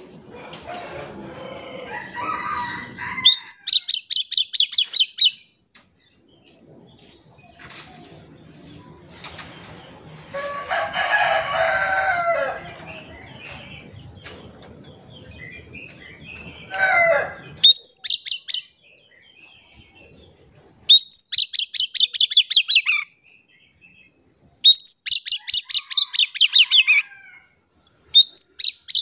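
Oriental magpie-robin (kacer) singing in loud bursts of very fast, rattling high notes, repeated every few seconds. A lower, harsher call sounds near the middle.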